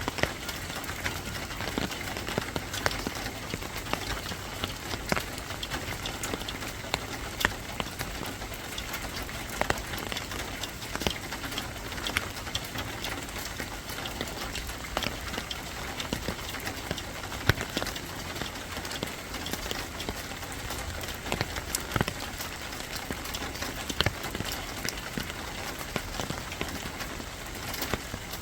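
Steady rain falling, with many drops striking a hard surface as irregular sharp taps.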